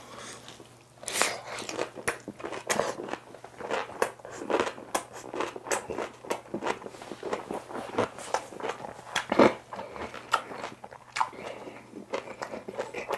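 A person biting into and chewing a napa cabbage kimchi wrap close to the microphone: a dense run of irregular crunches that starts about a second in.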